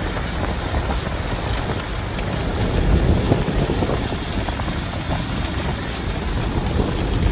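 Steady road and wind noise inside a moving vehicle: a low rumble with scattered faint ticks.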